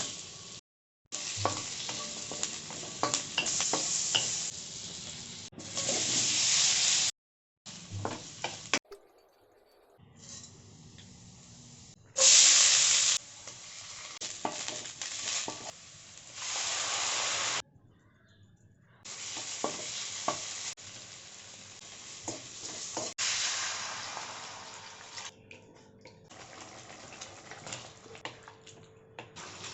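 Food sizzling and frying in a hot kadhai, with a utensil stirring and clicking against the pan, in a run of short clips with abrupt cuts and brief gaps between them.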